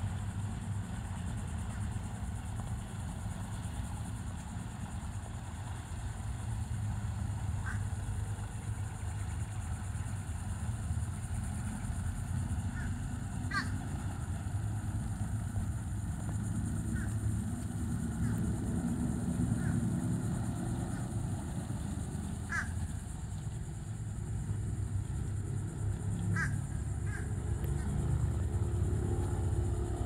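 Short bird calls, about nine of them scattered singly and in pairs through the middle and later part, over a steady low rumble.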